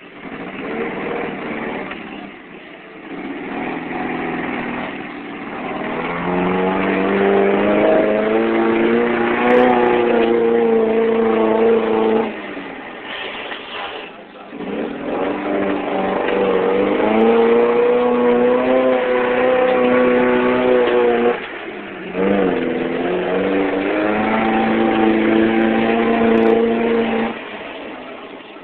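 Toyota mud truck's engine revving hard under load in several long pulls, the pitch climbing over a few seconds, dropping off briefly and picking up again three or four times.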